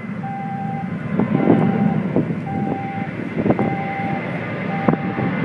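Aeroplane engines running loud during takeoff, a steady rumble. Over it, a beep repeats about once a second, and a few sharp knocks come through.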